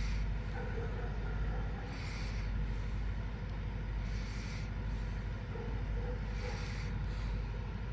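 DPKr3 diesel train running with a steady low rumble, and a hiss that swells briefly about every two seconds.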